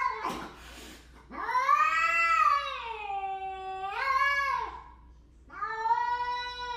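Domestic cat yowling: a short cry, then two long drawn-out calls, the first rising and falling in pitch.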